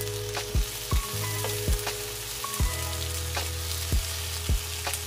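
Eggplant frying in oil in a pan with a steady sizzle, under background music with low held notes and a regular low beat about every three-quarters of a second.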